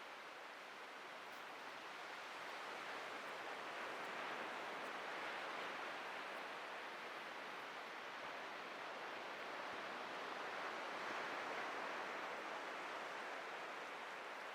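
Atlantic Ocean surf washing onto a beach: a steady hiss of breaking waves that swells slowly twice.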